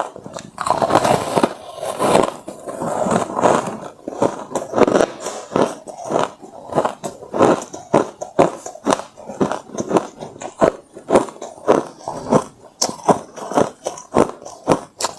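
A person biting and chewing hard refrozen crushed ice: a run of sharp crunches at about two to three a second, with a denser stretch of crunching in the first couple of seconds.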